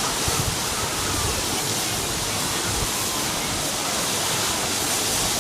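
Steady rushing of falling or flowing water, with faint voices in the background.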